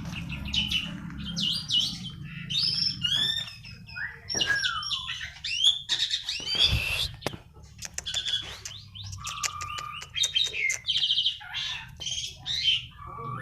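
A songbird singing a varied, continuous song of chirps, gliding whistles and rapid trills, over a steady low hum.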